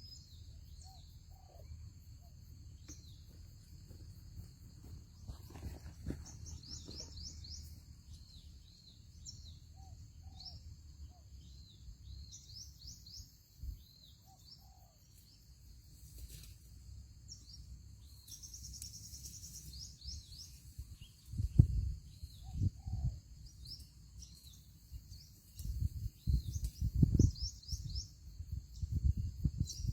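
Small birds chirping in short high calls over a steady high insect drone, with a few fainter, lower bird calls. In the second half, bursts of low rumbling and thumps are the loudest sounds.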